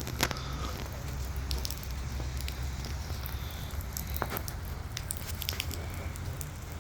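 Wind rumbling on the microphone, with scattered light clicks and crackles over it.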